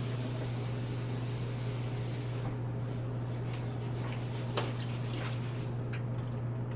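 Fried rice and tomato sauce sizzling in the hot pan over a steady low hum; the hiss eases off about two and a half seconds in, followed by a few light clicks.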